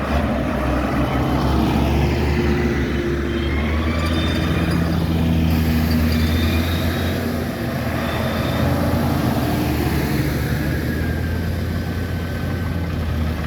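Several tractor engines running at once, a steady low drone with a few engine notes shifting up and down in pitch as the vehicles move.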